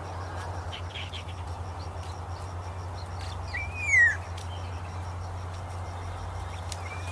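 A bird gives one loud whistled call a little past halfway, holding briefly and then sliding down in pitch, over a steady background hum.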